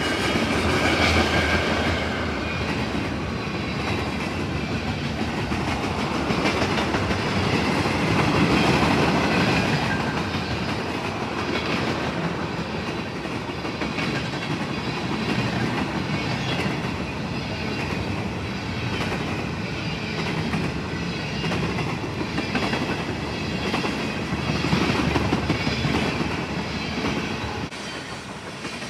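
Freight train's cars rolling past: steel wheels clicking over the rail joints over a steady rumble, with a faint high wheel squeal at times. It eases off a little near the end.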